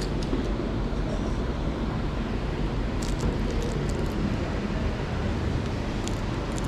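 Yamaha MT-09's inline three-cylinder engine running at a steady speed through an Akrapovic titanium exhaust, a low, even rumble with no revving. A few faint clicks come about halfway through and again near the end.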